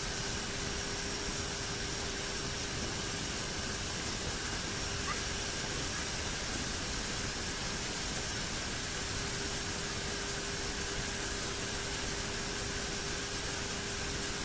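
Steady cockpit noise of a turboprop airliner in flight: an even rush of air and engine noise with a constant low hum and a fainter high whine.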